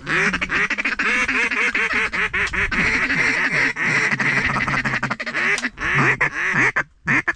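Hand-blown duck calls working ducks: a continuous run of rapid quacks, about four a second, that breaks off briefly near the end.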